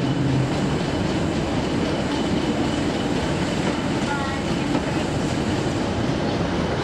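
Diesel locomotive running on the line, a steady, loud, unbroken noise.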